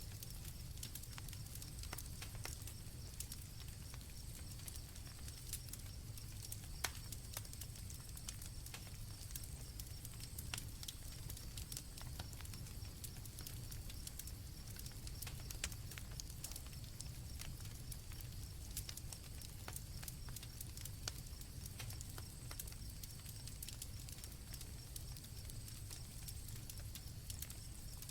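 Campfire crackling, with sharp pops at irregular moments over a low steady rumble of the flames, while crickets chirp in a steady high-pitched drone.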